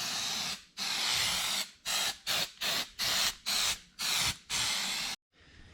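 Aerosol can of gasket remover spraying: one long hiss, then a string of about eight shorter bursts of varying length, the last stopping sharply about five seconds in. It is being sprayed on to strip old clear coat from a wheel part.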